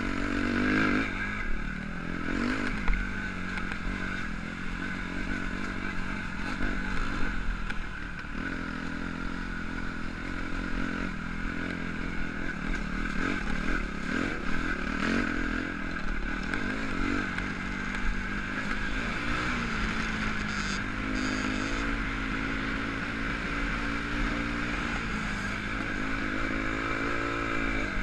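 Motocross bike engine running, its pitch rising and falling with the throttle, with a rising rev near the end.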